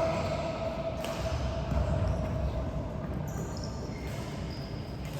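A basketball game in a large gym: a ball bouncing on the court among players' movement, with a held tone fading out over the first three seconds.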